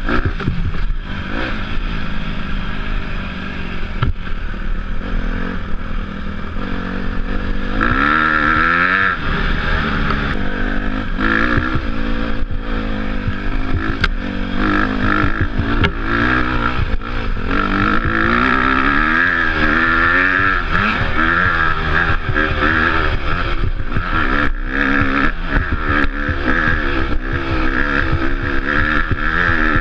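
Off-road motorcycle engine being ridden, its revs rising and falling over and over as the throttle is worked, with scattered knocks and clatter.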